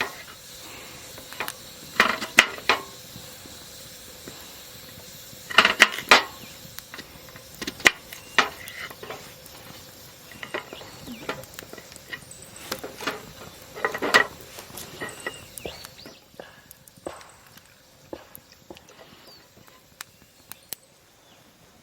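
Metal cooking utensils clinking and scraping against a pan in irregular knocks, some ringing briefly, over a steady sizzle that fades out about three-quarters of the way through.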